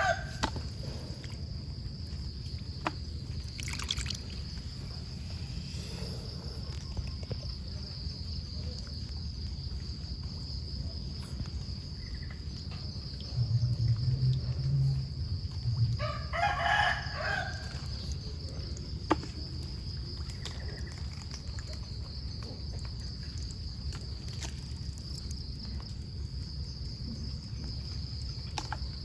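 A rooster crows once, a little past halfway, over a steady high-pitched insect drone and a constant low rumble. Just before the crow the low rumble swells for a couple of seconds.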